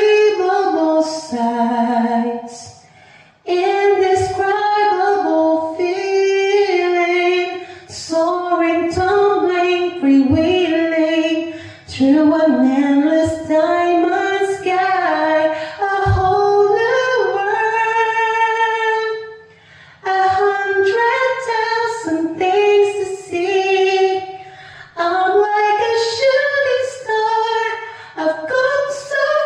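A single voice singing a cappella, with no accompaniment, in sustained sung phrases. The singing breaks off briefly about three seconds in and again around twenty seconds in.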